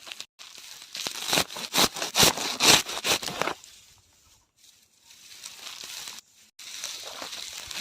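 Crisp crunching and crackling: a quick run of sharp cracks for about two seconds, then softer, sparser crackle.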